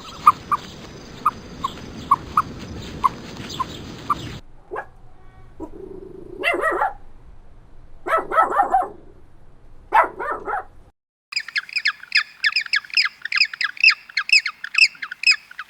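Short repeated calls over a steady hiss, then a dog barking a few times, then a small bird chirping in a fast, even string from about eleven seconds in.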